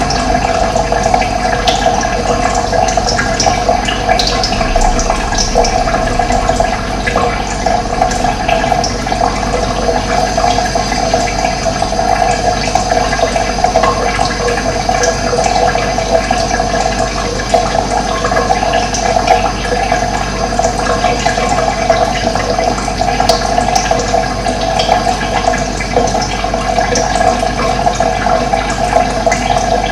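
Steady running water, with short bird chirps here and there above it.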